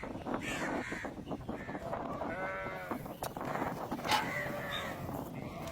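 Farmyard animal calls over a busy outdoor background, with one wavering, drawn-out call about halfway through, like a sheep or goat bleating.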